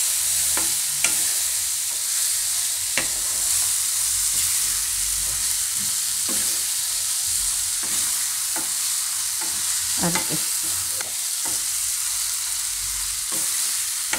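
Fenugreek leaves and ripe banana slices sizzling in oil in a nonstick wok, stirred with a wooden spatula that scrapes and taps against the pan every second or two over a steady frying hiss.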